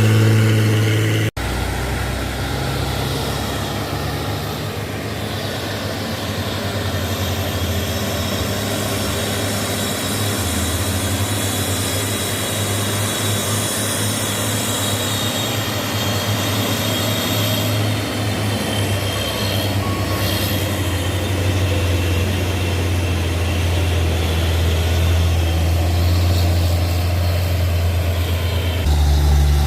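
Heavy truck engine running under load on a steep climb: a steady low drone with a faint high whine above it.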